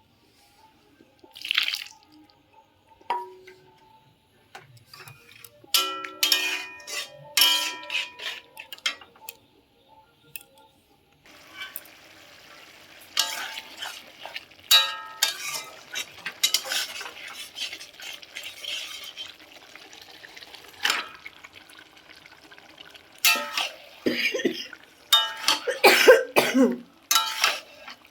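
Metal pots and utensils clattering and scraping during cooking, some strikes ringing briefly. A steady hiss starts suddenly about eleven seconds in and carries on under further clatter.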